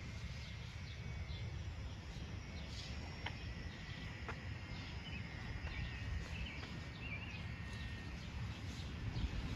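Outdoor neighbourhood ambience: a steady low rumble of wind and handling on the microphone, with small birds chirping faintly now and then, most of them in the second half.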